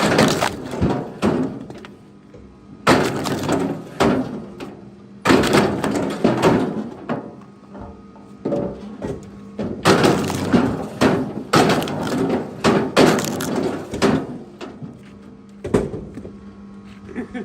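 Pieces of firewood knocking and clattering against each other in repeated bursts, about seven times, as they are tossed or dropped onto a pile.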